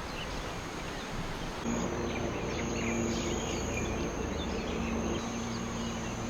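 Outdoor tropical ambience: an even background hiss, joined about two seconds in by a steady high insect drone over a faint low hum.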